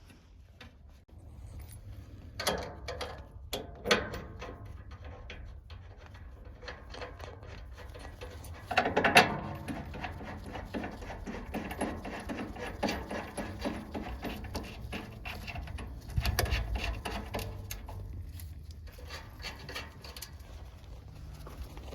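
Irregular clicks, knocks and rubbing of hand work on metal and plastic parts, with a louder clatter about nine seconds in and a low steady hum underneath.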